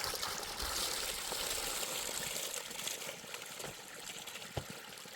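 Water trickling and pouring, fuller for the first couple of seconds and then thinning out, with a single soft knock near the end.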